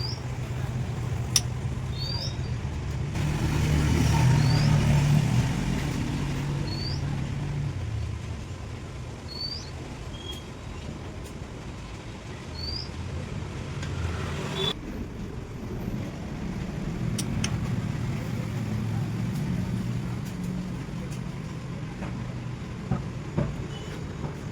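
A car engine running steadily, swelling louder for a few seconds near the start. A short high chirp repeats about every two and a half seconds through the first half.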